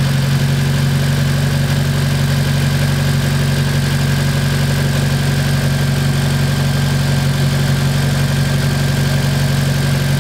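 Honda Civic Si's four-cylinder engine idling steadily, with a faint steady whine above it. It is being run up to temperature to bleed air out of the coolant through a funnel on the radiator, with the thermostat removed.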